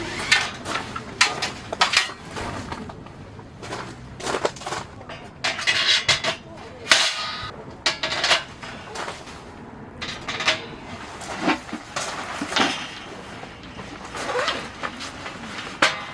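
Camping gear handled and set up by hand: a series of sharp clicks, knocks and clanks, with a stretch of scraping or rustling about five seconds in.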